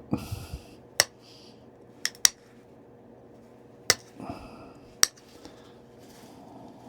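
Flintknapping: five sharp clicks of stone on stone as flakes come off a stone point, with soft scraping and rustling between them.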